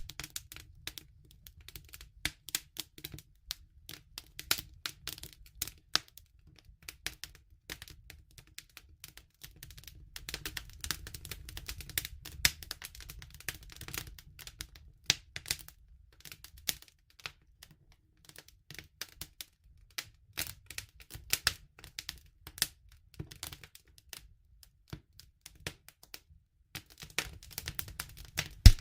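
Wood campfire crackling: irregular sharp pops and snaps, some much louder than the rest, over a low rumble that comes and goes.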